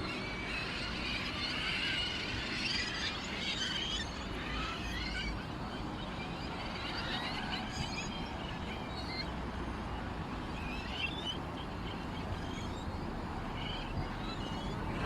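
Small songbirds chirping and twittering, many short calls overlapping for the first few seconds, then fewer and more scattered, over a steady background hiss.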